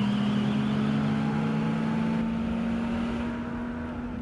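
Car engine running hard after a fast getaway, its note rising slightly and then holding steady over a rush of wind and tyre noise. The sound eases off a little near the end.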